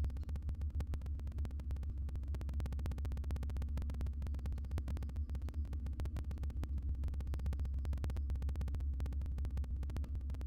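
Steady low electrical hum from a nest-box camera microphone, with a constant fast crackle over it.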